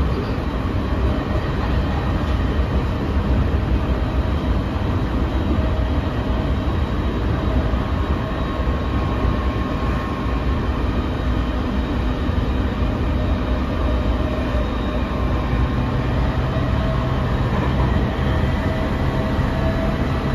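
Running sound of a JR 209-500 series electric commuter train heard inside the passenger car: a steady rumble of the wheels on the rails at speed, with a few faint steady tones over it.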